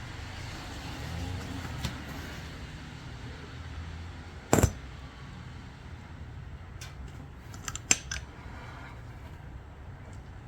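A tyre plug insertion tool being pushed into a motorcycle tyre puncture: a loud, sharp double click about halfway, then a few lighter clicks about three seconds later, over a steady low hum.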